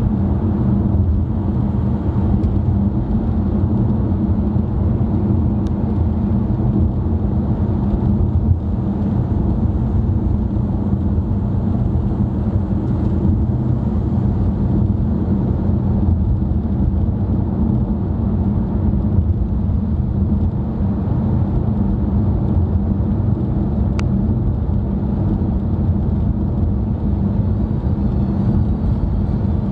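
Steady road and engine rumble of a car driving, heard from inside the cabin, with a low, even hum.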